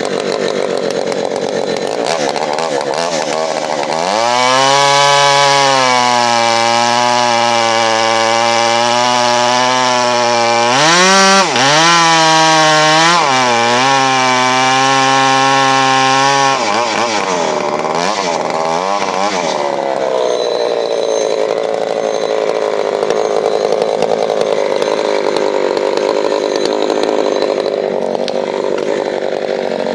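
Husqvarna 390 XP two-stroke chainsaw with a modified muffler, loud. It idles, is revved up and held at high speed for about twelve seconds with a brief drop and re-rev midway, then drops back to idle with a couple of quick blips of the throttle.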